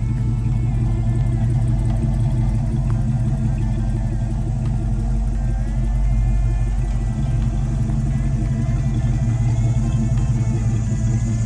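Car engine running steadily with a low, even rumble.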